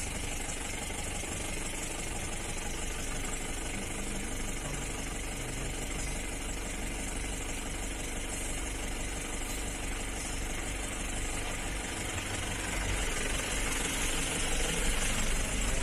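Safari jeep's engine running steadily, getting a little louder near the end.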